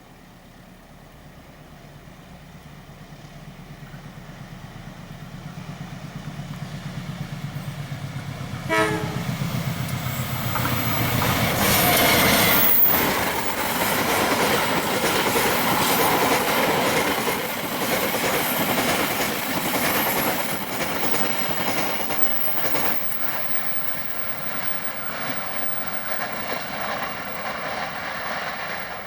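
A train approaching and passing close by: the low rumble of the diesel locomotive grows steadily louder, a short horn blast sounds about nine seconds in, then the noise of the locomotive and carriages running past on the rails is loudest about twelve seconds in and stays loud as the train goes by.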